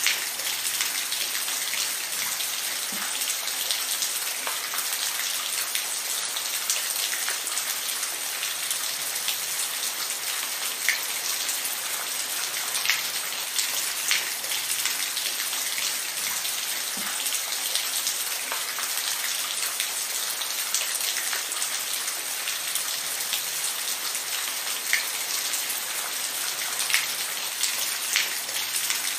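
Steady rain falling, an even hiss sprinkled with many distinct drop ticks.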